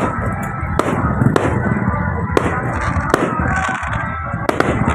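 Aerial fireworks bursting, about six sharp bangs roughly a second apart, over a steady background din.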